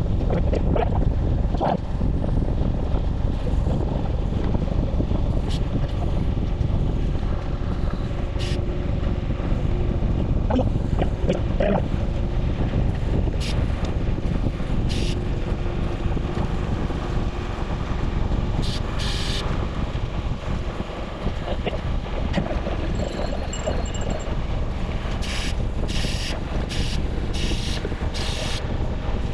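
Wind buffeting the microphone of a camera carried on a moving bicycle, a steady rumbling noise, with scattered short clicks in the last few seconds.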